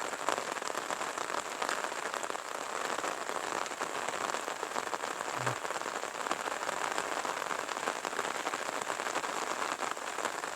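Steady light rain falling: a dense, even patter of many fine drops.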